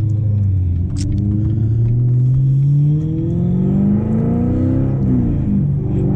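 2014 Corvette Stingray's 6.2-litre LT1 V8, with headers and a straight-piped exhaust, accelerating hard. The engine note climbs, drops at a gear change about three seconds in, climbs again, and shifts once more near the end.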